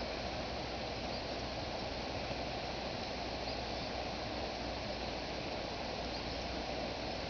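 Steady rush of fast-running floodwater from a creek overflowing its banks.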